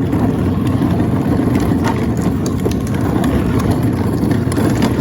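A steady low rumble with faint scattered clicks.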